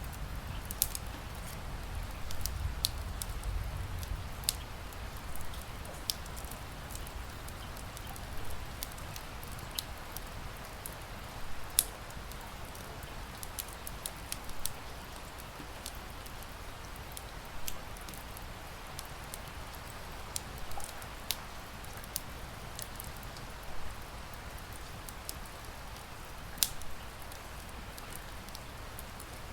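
Wood fire crackling in a fireplace, with sharp irregular pops, over a steady hiss of rain.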